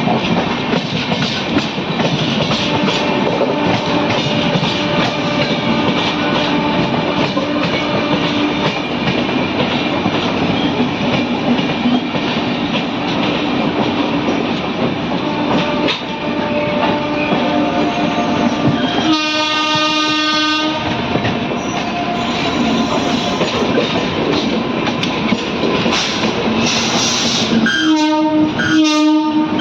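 Express passenger train running with a steady rumble and wheel clatter. A locomotive horn sounds one long blast about two-thirds of the way through, then a run of short blasts near the end.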